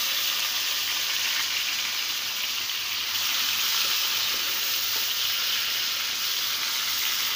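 Chopped tomatoes sizzling steadily in hot oil in a frying pan.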